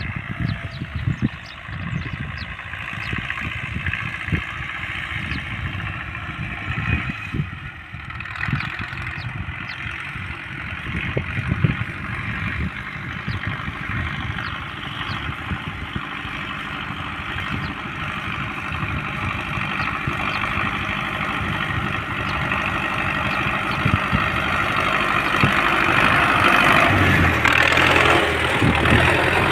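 Tractor engine running steadily as it pulls a tillage implement through a field. It grows louder over the last few seconds.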